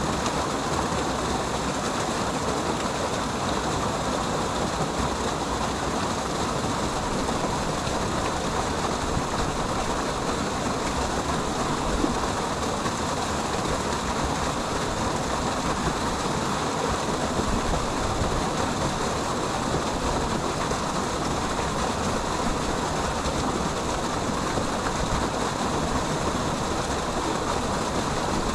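Steady rush of a waterfall, the falling water making an even, unbroken noise.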